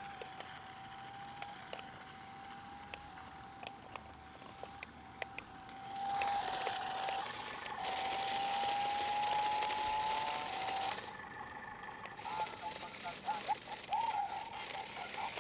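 Small electric motors of a toy remote-control drift car whining as it drives, with light clicks and rattles. The whine gets louder about six seconds in, then turns wavering and stuttering near the end.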